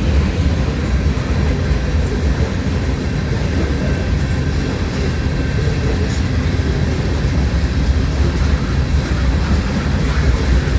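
Freight train of sand cars rolling past, a steady loud low rumble of wheels on rail.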